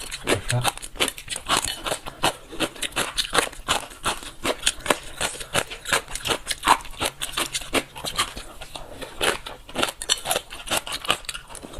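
Close-miked chewing of crunchy dressed gongcai (rehydrated dried celtuce stems): a fast, irregular run of crisp crunches, several a second.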